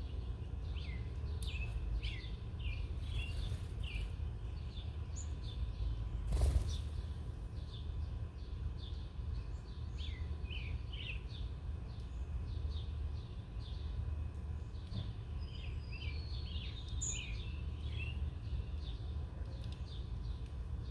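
Small wild songbirds at a backyard seed feeder chirping on and off, short calls, many dropping in pitch, over a steady low rumble of background noise. A brief louder rush of noise comes about six seconds in.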